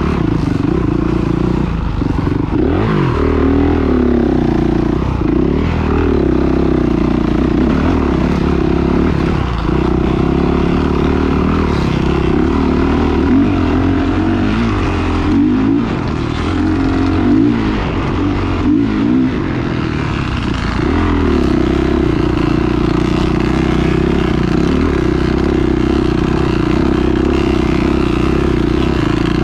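Motocross dirt bikes running on a track, their engines revving up and down and rising and falling in pitch, with a steadier drone in the last third.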